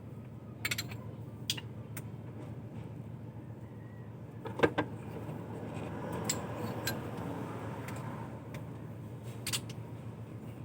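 Metal hand tools and engine parts clinking and clattering during disassembly work, a scatter of sharp clinks with one loud knock about four and a half seconds in, over a steady low hum.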